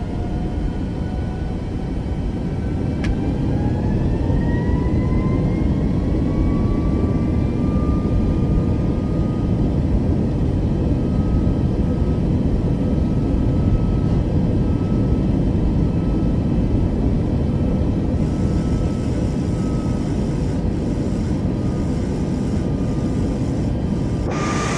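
Jet aircraft engines running loud, a steady roar with a whine that climbs in pitch over the first several seconds and then holds steady.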